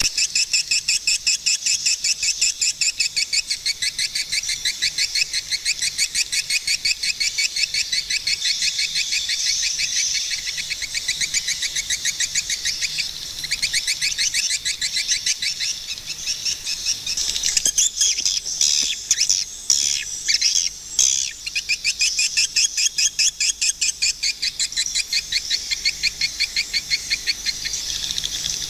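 Swiftlets calling: a fast, evenly repeated train of high chirps, with a louder, more ragged burst of calls from roughly two-thirds of the way in.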